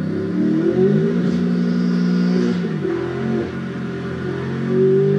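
BMW M5 F90's twin-turbo 4.4-litre V8 accelerating hard. The engine note rises, drops sharply at an upshift about two and a half seconds in, then climbs again.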